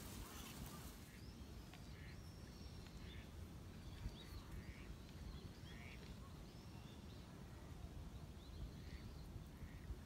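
Faint wild birds calling: a string of short, high calls spaced a second or so apart, over a steady low rumble.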